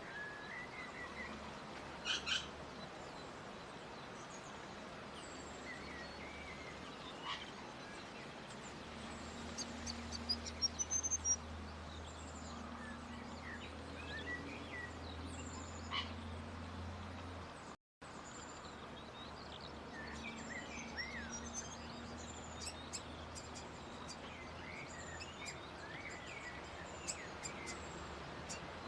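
Small birds chirping and twittering outdoors: short, high, scattered calls over a steady background hiss, with a brief dropout about two-thirds through.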